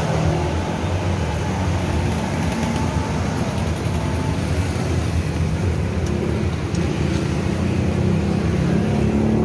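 A car engine running steadily at idle, a low even hum with no change in speed.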